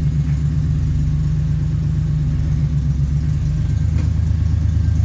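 1969 Jeep Willys CJ5 engine idling steadily, with a slight change in its tone about three and a half seconds in.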